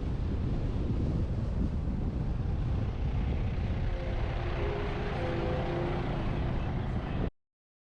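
Wind buffeting a roof-mounted GoPro on a moving truck, mixed with the truck's road and engine rumble. A few faint steady tones come in past the middle, and the sound cuts off abruptly near the end.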